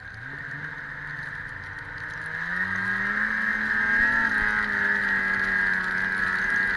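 1997 Ski-Doo MXZ 670's two-stroke engine pulling the snowmobile along, revving up over the first few seconds and then holding steady at higher speed, getting louder as it accelerates.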